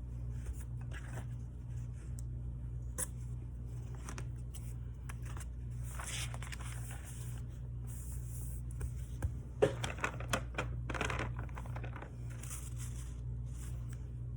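Paper planner pages, stickers and tape being handled: scattered rustles, scrapes and light clicks, with a busier run of crinkling and sharp clicks around ten seconds in, over a steady low hum.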